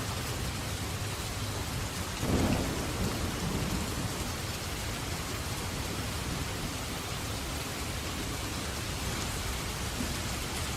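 Steady rain falling, with one clap of thunder a little over two seconds in that rumbles and fades over a second or two.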